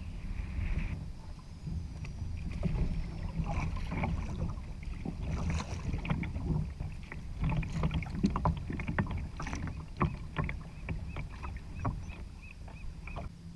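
Ocean kayak afloat on the sea: a steady low rumble of water and wind, with a run of knocks and clicks against the hull from about three seconds in, and a quick series of small high ticks near the end.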